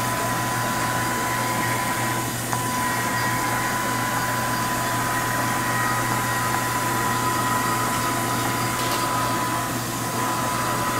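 Haas HS1RP horizontal machining center jogging an axis on its ways: a steady hum with a steady high whine over it, which fades out shortly before the end. The ways sound really quiet.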